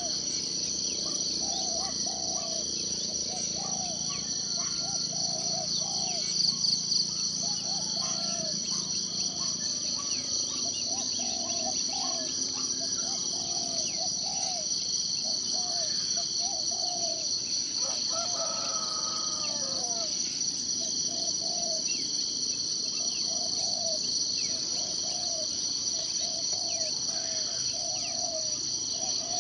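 Forest ambience: a steady, high-pitched insect chorus, with a bird repeating a short low call about once a second. A longer, more complex call cuts in about two-thirds of the way through.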